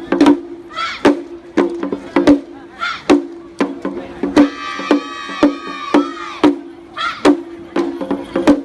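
Lion-dance festival drumming: steady drum beats about twice a second over a ringing tone, with short high shouted calls between and one long high held note in the middle.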